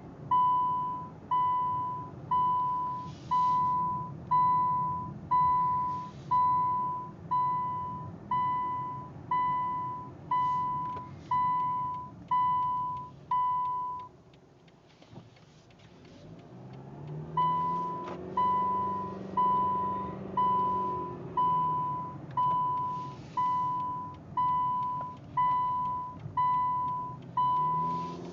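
2011 Subaru Outback's reverse-gear warning beeper, one steady beep about once a second, over the engine idling. The beeping stops for about three seconds partway through while the engine note rises, then starts again.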